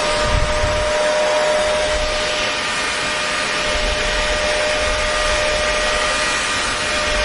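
Electric hair dryer running steadily: a broad rush of blown air with a steady motor whine over it, and a brief low rumble about half a second in.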